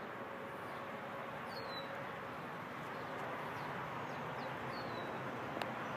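Steady outdoor background noise with a few faint, short, high chirps from small birds, falling in pitch, about two seconds in and again between four and five seconds. A single sharp click near the end.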